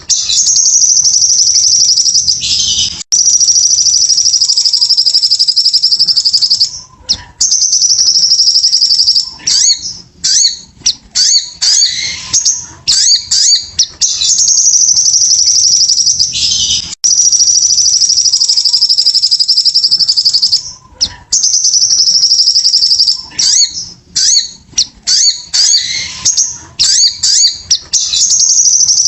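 Sogon sunbird singing hard: long, high, fast trills lasting several seconds each, broken up by clusters of short, sharp chirps.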